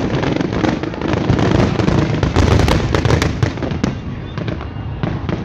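Fireworks going off in a rapid barrage of overlapping bangs and crackles with a deep rumble beneath, thinning out after about four seconds.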